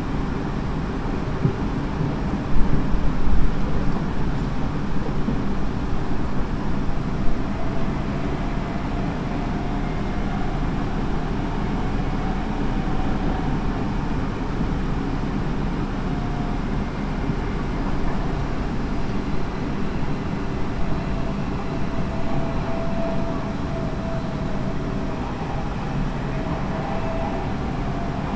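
Tobu 30000 series electric train running between stations, heard from inside the car: a steady rumble of wheels on rail with a faint whine, and a cluster of louder knocks about three seconds in and another near seven seconds.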